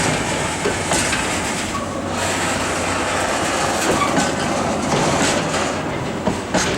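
Freight train rolling past, its wagon wheels clattering over the rail joints with a steady rumble and irregular clicks and bangs.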